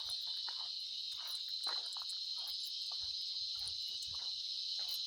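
Chorus of cicadas giving a steady, high-pitched buzz, with irregular footsteps underneath.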